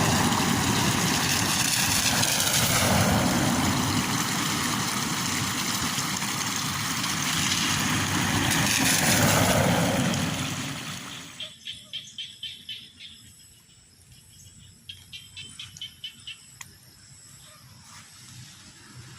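Strong gusting wind with rain, loud and swelling on the microphone, dies away about ten seconds in. It leaves a quieter background with short trains of rapid chirping pulses.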